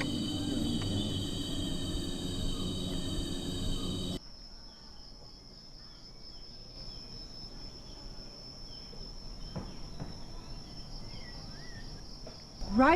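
Rainforest insects droning in steady high-pitched tones. About four seconds in the sound cuts to a quieter insect drone with a few faint bird chirps.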